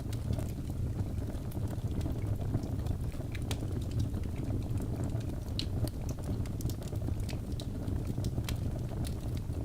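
Birch logs burning in a fireplace: a steady low rumble of flame with irregular sharp crackles and pops scattered throughout.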